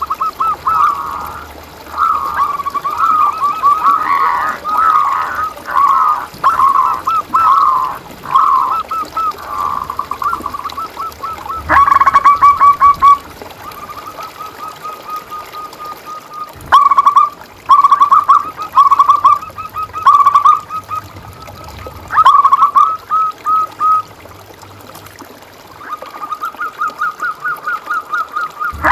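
Zebra doves (perkutut) cooing: runs of quick, repeated staccato notes. Several birds overlap in the first part, then separate phrases come with short pauses between them.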